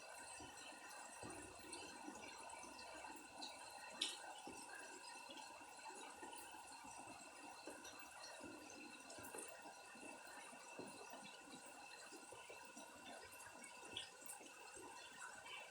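Faint steady rain falling, with scattered drips and a sharp single tap about four seconds in.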